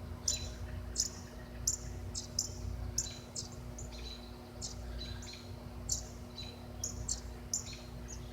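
Northern cardinals calling: short, sharp, high chip notes repeated irregularly, about two or three a second, as the parent birds come to their fledgling. A steady low hum runs underneath.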